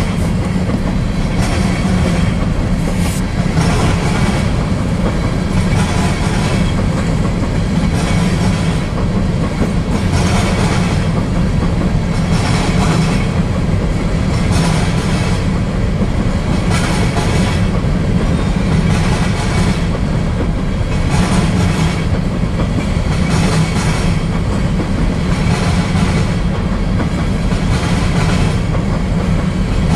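Covered hopper cars of a freight grain train rolling past: a steady low rumble of steel wheels on rail, with a sharp clack about every second or so as wheelsets cross rail joints.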